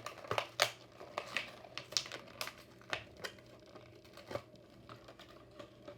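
Plastic blister packaging of a diecast toy car crinkling and crackling in a run of sharp clicks as it is worked open by hand. The clicks thin out after about four and a half seconds.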